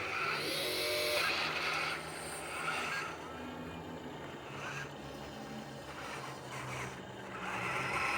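Dump truck's diesel engine running steadily, with a louder rush of noise for the first two seconds.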